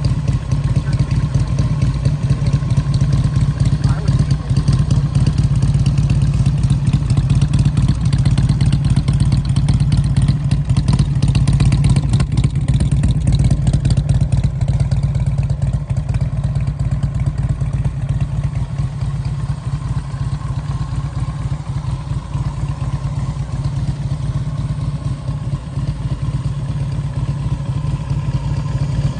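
Custom bagger motorcycle engine running steadily, with a loud, even exhaust pulse and no clear revving.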